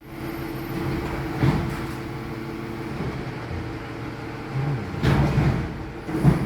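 Garbage truck engine running steadily, with several loud thumps and clanks: one about a second and a half in and two more near the end.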